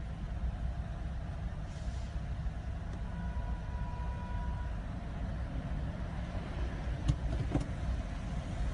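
Steady low rumble of road traffic, with two short clicks about seven seconds in.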